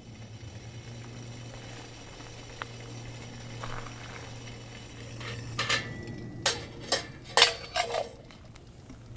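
Metal cookware and utensils clinking: a handful of sharp clinks in quick succession past the middle, one with a brief ring, over a steady low hum.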